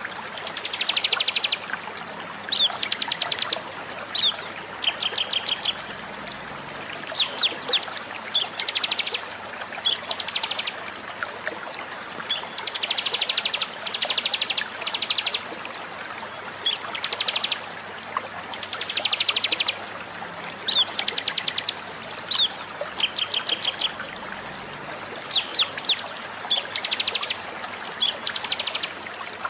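Songbird song: short phrases of high, rapid trills alternating with sharp rising chirps, repeated one after another with brief gaps, over a steady background hiss.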